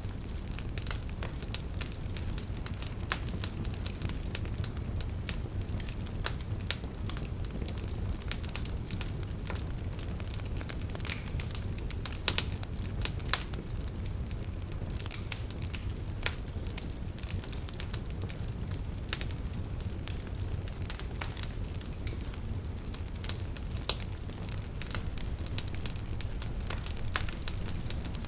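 Wood fire burning in a fireplace: a steady low rumble of the flames with frequent irregular crackles and pops of the burning logs.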